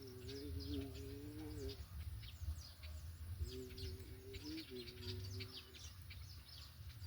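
Many small birds chirping, quick high falling chirps throughout, over a low steady rumble. A steady two-note hum sounds twice: at the start until almost two seconds in, and again from about three and a half seconds to nearly six.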